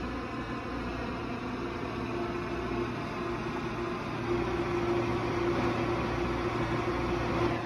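Airport Express train running between stations, heard inside the carriage: a steady rumble and hiss of the running train with a constant electrical hum, growing slightly louder about four seconds in.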